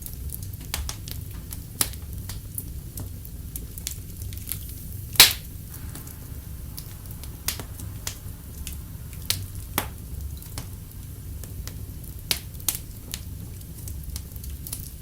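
Wood fire in a fireplace crackling, with scattered sharp pops over a low steady rumble and one loud pop about five seconds in.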